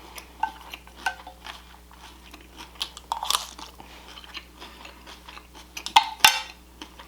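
Close-up eating sounds: biting and chewing crunchy food, with louder crunches about three seconds in and again near the end.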